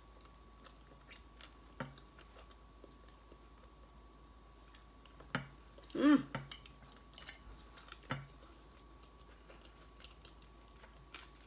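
A mouthful of chicken burrito being chewed, with soft scattered mouth clicks and smacks, and a brief vocal sound about six seconds in.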